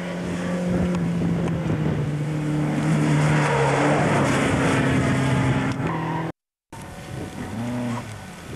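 Opel Manta rally car's engine held at high revs as it drives past close by, loudest about halfway through, its note dropping in pitch as it goes by. Near the end the sound cuts out for a moment, then a more distant rally car's engine revs and eases off.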